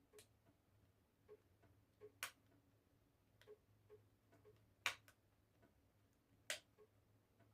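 Wood fire in a fireplace crackling: faint, irregular pops and snaps, with three louder cracks about two, five and six and a half seconds in.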